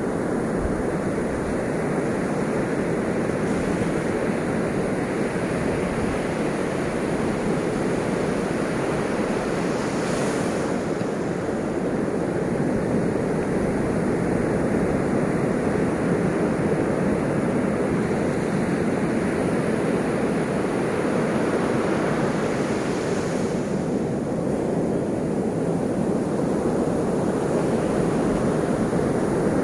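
Ocean waves washing on a shore: a steady rush of surf, with a brighter hiss as a wave breaks about a third of the way in and again near the three-quarter mark.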